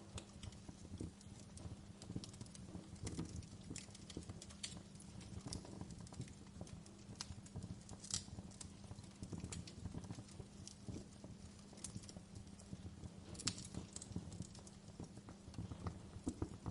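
Wood fire crackling in a fireplace: irregular sharp snaps and pops, a few a second, over a faint steady low rumble.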